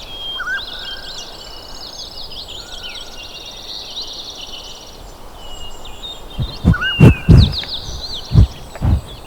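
Songbirds singing quick, repeated chirping phrases. In the last three seconds there are several loud, low thuds in quick succession.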